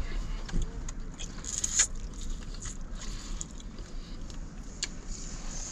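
Close-up chewing and lip-smacking while eating a sauced chicken wing: scattered wet smacks and clicks from the mouth, over a steady low rumble.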